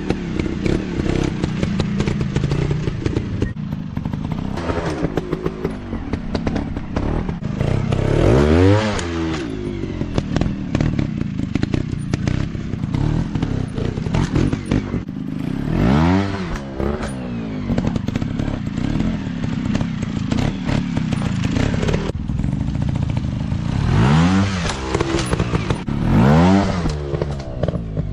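Dirt bike engines running through the whole stretch, with the revs swelling up and back down four times: about a third of the way in, past halfway, and twice near the end. Clattering and knocking sounds are mixed in with the engine noise.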